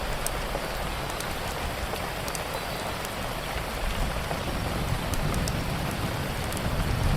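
Steady rain falling on a surface, with a low rumble underneath and sparse, faint, sharp crackles like a wood fire popping.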